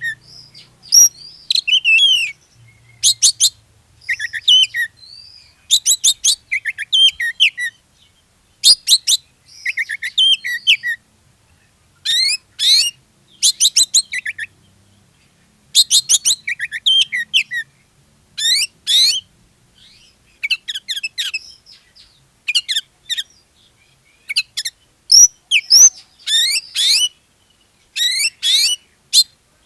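Oriental magpie-robin (kacer) in full song: phrase after phrase of fast, high whistles and sweeping notes, each lasting about a second or less, with short pauses between them.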